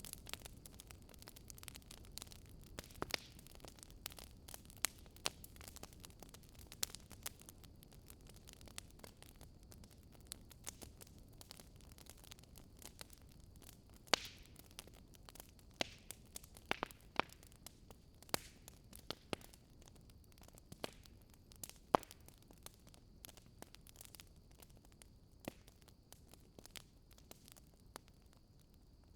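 Fire crackling: irregular sharp snaps and pops over a soft low rumble.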